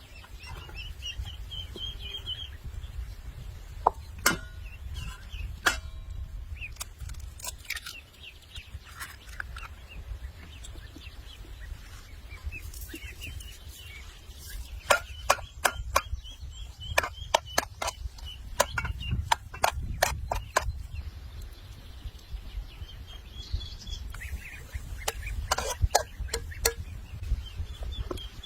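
Birds calling again and again in high, arching phrases over a steady low rumble, with scattered sharp clicks coming in clusters.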